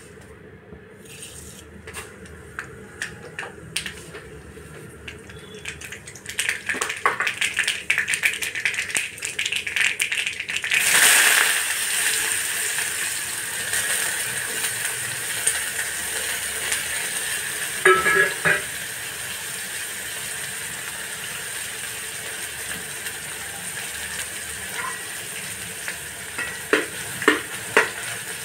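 Hot oil in an aluminium kadhai crackling, then sizzling loudly about eleven seconds in as chopped onion goes in, and settling into steady frying. There are a few metal clinks of utensils against the pan, more of them near the end as green chillies and curry leaves are added.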